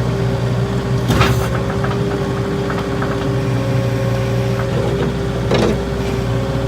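New Holland skid steer's diesel engine running steadily, with two brief louder noisy surges, one about a second in and one about five and a half seconds in.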